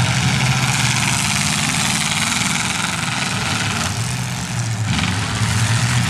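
Engines of several full-size demolition derby cars running loud and steady together, a deep continuous rumble with a wide noisy wash over it that dips briefly about four seconds in.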